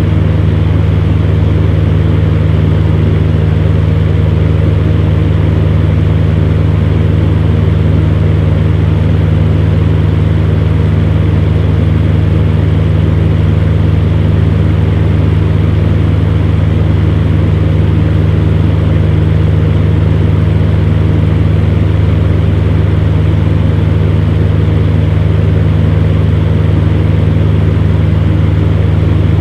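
Electric fan heater running steadily: a constant low motor hum under an even rush of blown air, unchanging throughout.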